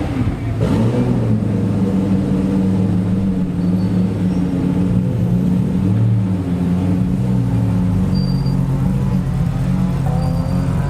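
Unsilenced race car engine running on track, holding a fairly steady note with small rises and falls, then revving higher near the end.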